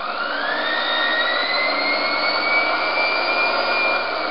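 Series wound brushed DC motor spinning up under a Kelly KDZ48400 controller with the throttle open: a loud whine that rises quickly in pitch, then holds steady at speed, easing slightly near the end. Pretty loud.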